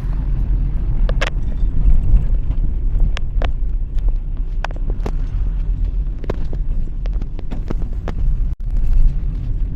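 Steady low rumble of a car driving on the road, with faint scattered clicks above it and a brief dropout about eight and a half seconds in.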